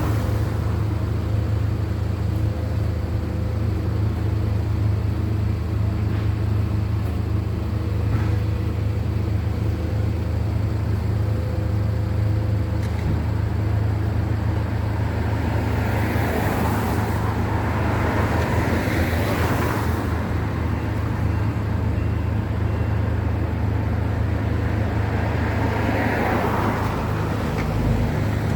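A steady low engine drone, with road traffic passing; vehicles swell up and fade away about halfway through and again near the end.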